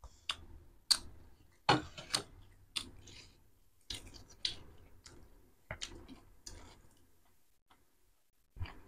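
Close-up crunching and chewing of crisp street snack, about one or two crunches a second, trailing off after about seven seconds, with one last crunch near the end.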